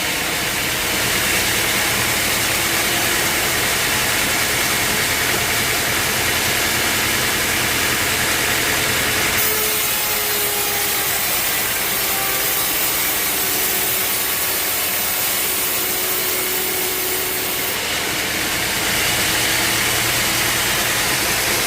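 Sawmill saw cutting steadily through a log. The hiss of the cut gets brighter about nine seconds in and eases back about eighteen seconds in.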